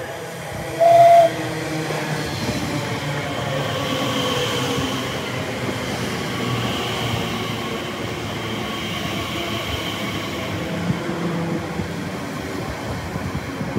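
Elizabeth line Class 345 electric train running into the platform, with a short horn blast about a second in that is the loudest sound. After the horn a whine falls slowly in pitch as the train slows, over steady wheel and rail rumble.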